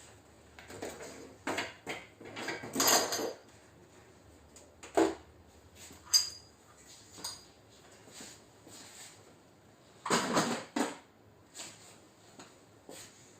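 Metal paintless-dent-repair tools clinking and knocking in irregular bursts. The loudest bursts come about three seconds in and again around ten seconds in, with one sharp ringing clink near six seconds.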